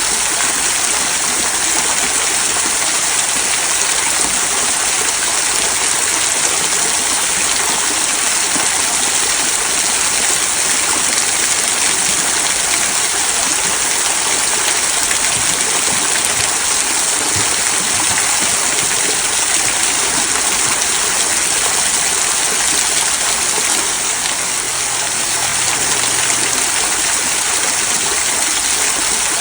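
Small rock waterfall trickling over stones into a stream: a steady, even rush of running water with a bright hiss.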